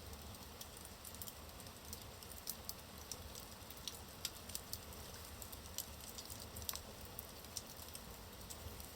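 Burning logs in a fireplace crackling, with irregular sharp pops and ticks, a few louder ones, over a low steady rush of the fire.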